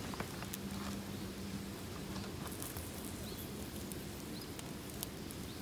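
Campfire burning and crackling: scattered sharp pops and snaps over a steady low rumble.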